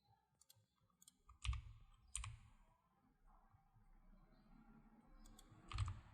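A few sharp clicks of a computer mouse and keyboard: faint ticks early on, two louder clicks about a second and a half and two seconds in, and another near the end, over a quiet room.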